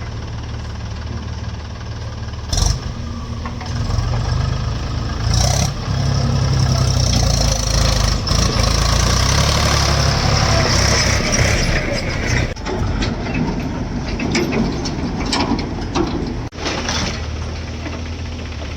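Diesel engine of a JCB backhoe loader running, revving up under hydraulic load for several seconds in the middle as it works the bucket, then settling back. Occasional metallic clanks or knocks.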